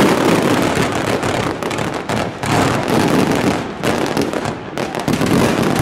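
A fireworks display going off: aerial shells and ground fountains bursting, a dense run of rapid overlapping bangs and crackle with no let-up.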